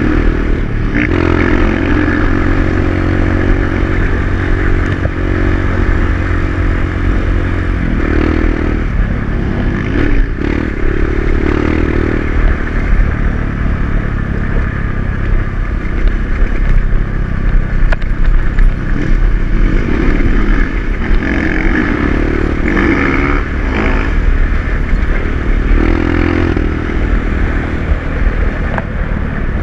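Dirt bike engine running under the rider while riding a trail, the revs rising and falling again and again as the throttle is worked, with scraping and rattling from the rough ground.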